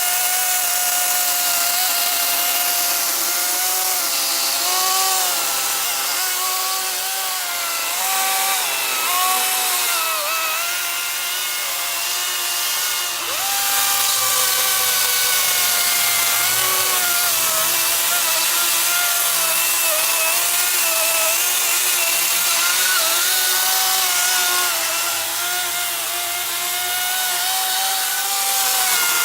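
DeWalt FlexVolt 60V Max brushless 16-inch cordless chainsaw running continuously while cutting into a thick trunk and root bulb. It gives a steady electric whine with the chain hissing, and the pitch sags and recovers several times as the chain bites under load.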